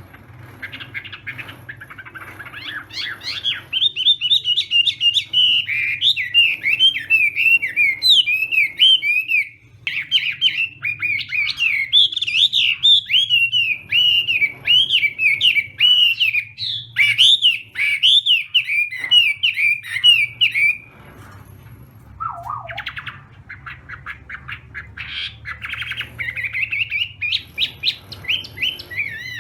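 Chinese hwamei singing a long, loud song of rapid, varied whistled notes that swoop up and down, breaking off briefly about ten seconds in and again near twenty-one seconds before starting up again. A steady low hum runs underneath.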